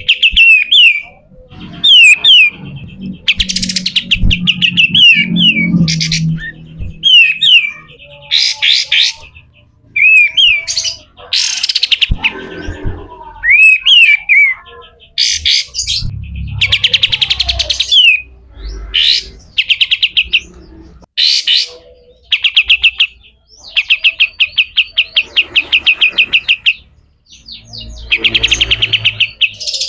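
Kapas tembak songbird singing in repeated bursts of one to two seconds: short down-slurred whistled notes and fast, harsh chattering rattles, the rough 'besetan kasar' call, with brief gaps between phrases.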